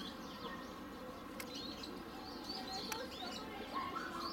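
Small birds chirping, many short, quickly curving calls one after another, over a steady low background noise.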